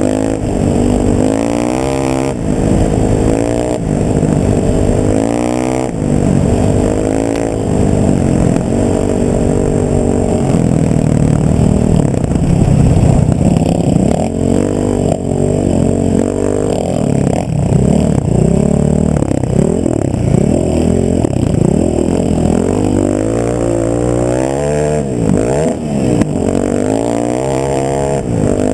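A motor vehicle's engine being driven, its pitch climbing and falling again and again as it revs up through the gears and eases off. A rougher stretch with rattling and clatter runs through the middle.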